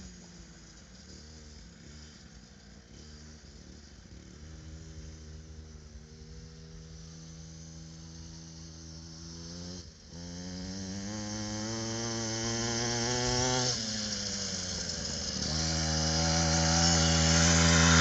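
Mini dirt bike's small engine running under throttle, its pitch climbing in stretches and dropping briefly about ten and fourteen seconds in, as if the throttle is backed off. It grows steadily louder over the last few seconds.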